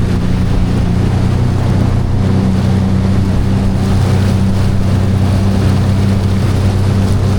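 Sea-Doo GTI 170 jet ski engine running at a steady cruising speed, with wind and water rushing past.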